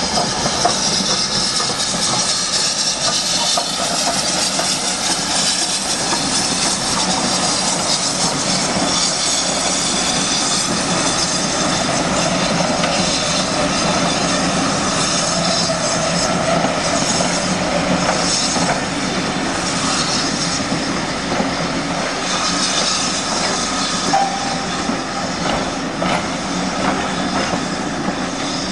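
A train running along the track: a steady rumble of wheels on rail, with clicking over the rail joints and a faint high wheel squeal.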